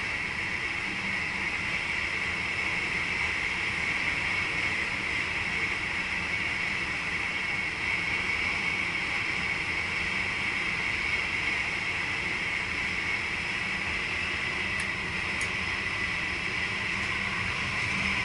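Steady running noise inside the driver's cab of a VIRM double-deck electric train travelling along the line, with a couple of faint ticks near the end.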